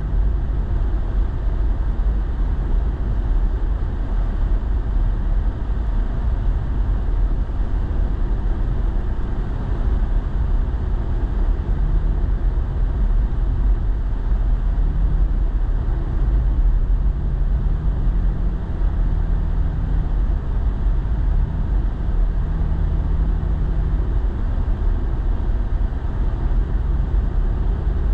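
Steady road and engine noise heard inside a moving truck's cab: a continuous low rumble, with a faint engine hum that comes and goes.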